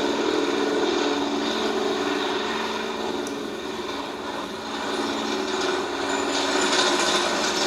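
Steady jet airliner engine noise with a constant low hum, easing slightly in the middle.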